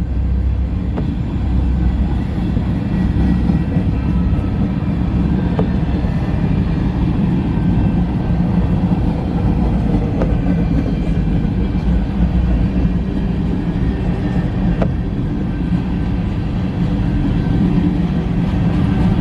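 Freight cars of a mixed freight train rolling past: a steady low rumble of steel wheels on rail, with a few sharp clicks.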